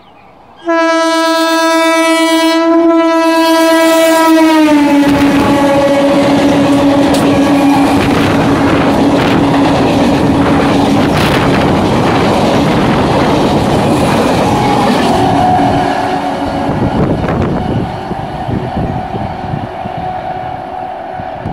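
Electric multiple unit local train sounding a long horn blast about a second in, the horn dropping in pitch a few seconds later, then the coaches rumbling and clattering over the rail joints close by. The noise falls away to a quieter rumble after about fifteen seconds.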